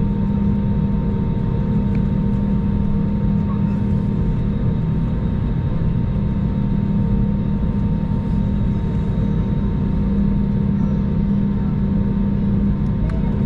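Airbus A321 jet engines at takeoff power, heard from inside the passenger cabin as a loud, steady roar with a low hum and several steady whining tones.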